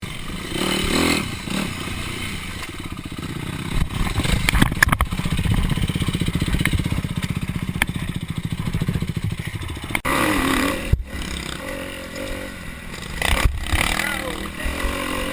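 Dirt bike engine running and revving, with a few sharp knocks and some clatter in between.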